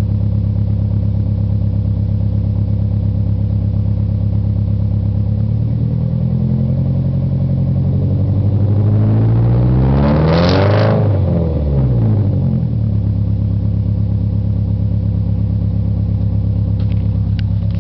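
2003 Chevrolet Cavalier's four-cylinder engine running through a BBP header, MagnaFlow catalytic converter and custom exhaust. It idles steadily, is revved once in a slow rise to a peak about halfway through, and falls back to idle.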